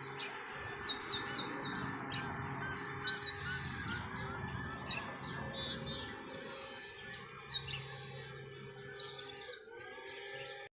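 Several small birds chirping and calling. A quick run of four descending whistled notes comes about a second in, with scattered chirps after it and a fast series of five or six notes near the end, over a steady background of even tones.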